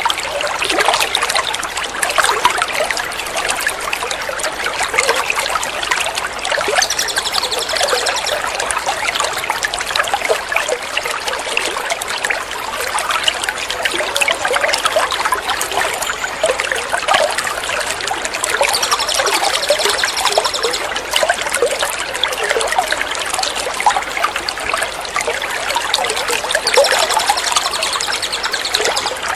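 Steady trickling water, a running-stream 'water therapy' recording, with a high, chattering songbird call of several stacked tones returning three times over it, as used for training songbirds such as the white-rumped shama.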